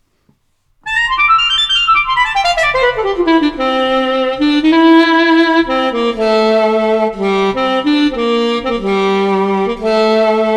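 Sampled alto saxophone from a SoundFont library played on a keyboard: after about a second of silence, a quick descending run of notes, then a slow melody of held notes.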